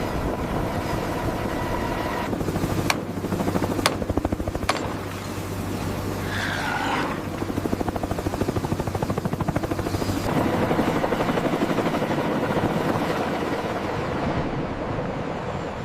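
Heavy machinery running steadily with a fast rhythmic throb. There are a few sharp clanks about three to five seconds in, and a brief wavering high sound about six seconds in.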